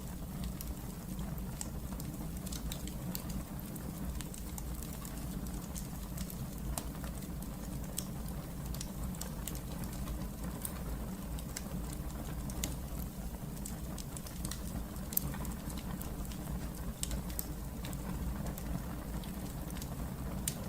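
Wood fire burning in a fireplace: a steady low rumble of the flames with scattered sharp crackles and pops, one louder pop about fifteen seconds in.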